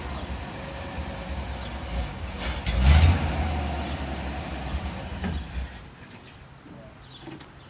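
Ford F-250 pickup truck's engine running with a low rumble. It surges to its loudest about three seconds in, then falls away sharply about six seconds in.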